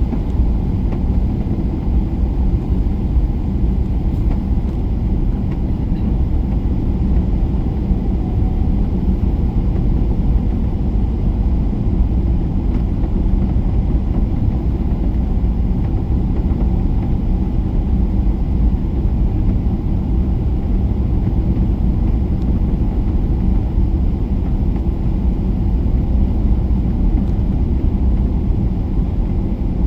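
Airliner cabin noise on approach: a steady, even low rumble of engines and airflow heard from inside the cabin.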